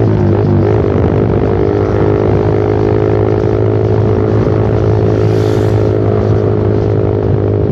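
Suzuki Satria FU fuel-injected single-cylinder motorcycle engine running through a short Pro Liner aftermarket muffler while riding at a steady speed: a loud, steady exhaust drone with little change in pitch. A brief hiss passes about five and a half seconds in.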